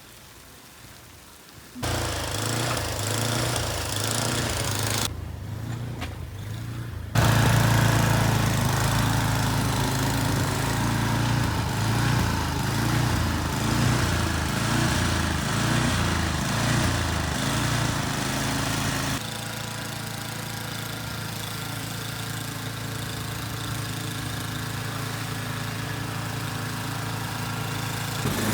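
Small petrol engine of a snowblower running steadily. It starts abruptly about two seconds in, breaks off suddenly for about two seconds, and comes back louder.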